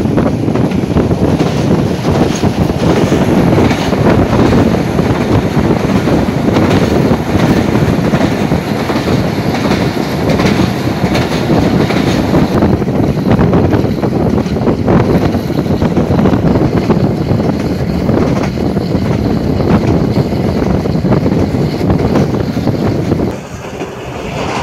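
Passenger train coach running along the track: a loud, steady wheel-on-rail rumble with frequent clicks of wheels over rail joints. The loudness drops noticeably about a second before the end.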